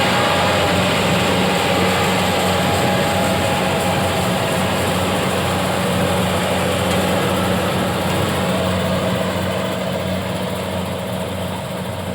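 A motor engine running steadily with a low hum, easing off slightly near the end.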